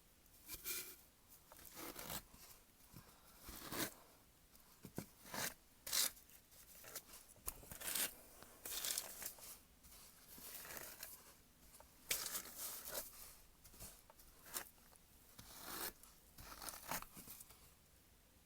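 Hairbrush strokes through a synthetic wig: a faint series of irregular, scratchy swishes, roughly one a second.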